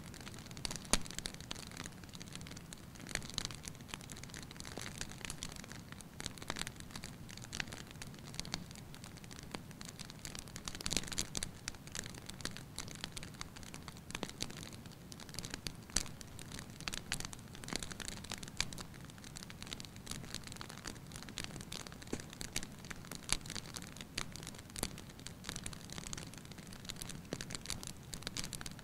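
Wood fire crackling in a fireplace: many irregular snaps and pops over a steady low hush.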